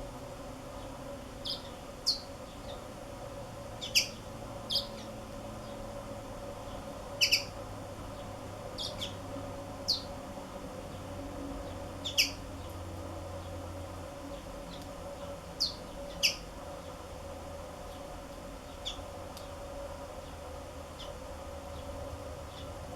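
Black-throated canaries giving short, sharp chirps, about a dozen scattered irregularly, over a steady low hum.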